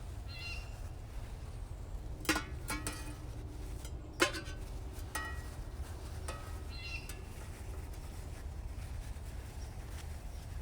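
Camp cookware being handled: a few sharp metallic clinks with brief ringing, about two and four seconds in, over a steady low hum.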